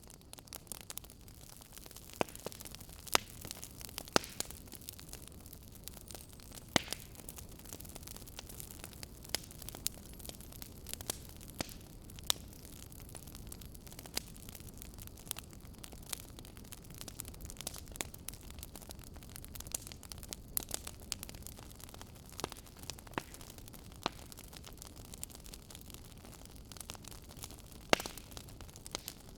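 Campfire burning: wood crackling and popping at irregular intervals over a steady low hiss.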